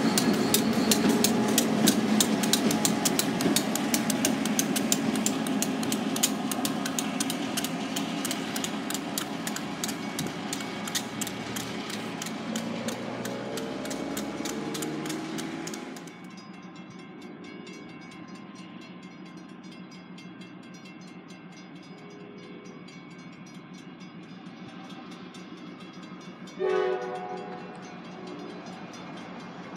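Long freight train rolling past: wheels clicking rapidly over the rail joints over a loud low rumble, fading gradually, then dropping off suddenly about halfway to a quieter steady hum. Near the end a train horn gives one short, distant blast.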